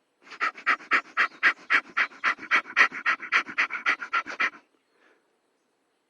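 A person doing bhastrika, bellows breath: rapid, sharp breaths forced in and out, about four a second for a little over four seconds, then stopping.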